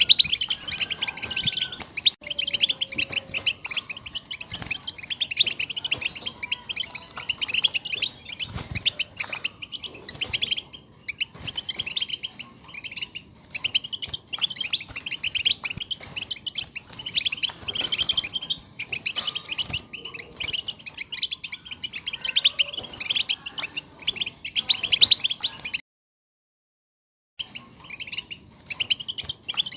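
European goldfinches twittering and singing: a dense, unbroken run of rapid chirps and trills that cuts out to silence for about a second and a half near the end.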